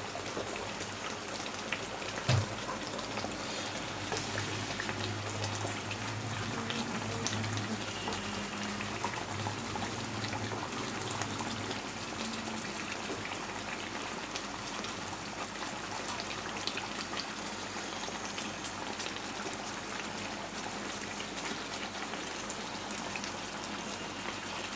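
Fish curry simmering and sizzling in a pan on the stove: a steady crackle of small pops and spatters. A single knock sounds about two seconds in, and a low hum runs under the first twelve seconds or so.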